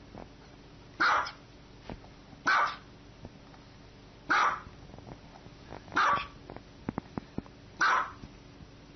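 A dog barking: five sharp single barks spaced about one and a half to two seconds apart, with a few short clicks between the fourth and fifth bark.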